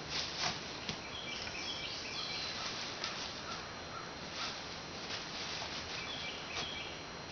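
Outdoor background noise with a bird chirping in two short runs of repeated calls, one about a second in and one about six seconds in, and a few light clicks.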